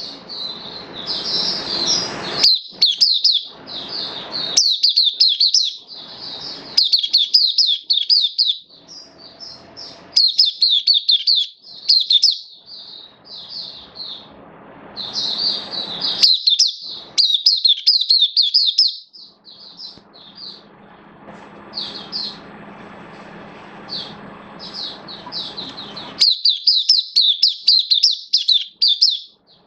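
A mata puteh (white-eye) singing a long, rapid, high-pitched twittering song in quick runs with short pauses. A low rushing background noise comes and goes beneath it, steadiest about two-thirds of the way through.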